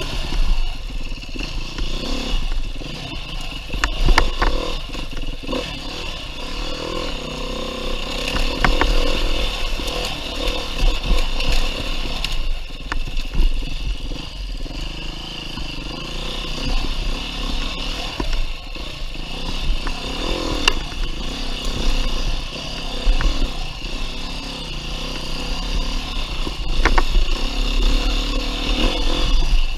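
Beta 390 RR-S four-stroke single-cylinder dirt bike engine being ridden, its revs rising and falling with the throttle. Sharp knocks and clatter come through now and then.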